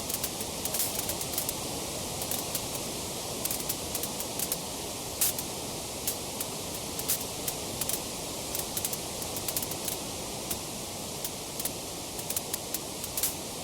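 Wood fire crackling: a steady hiss with many small sharp crackles and pops at irregular times, a louder pop about five seconds in.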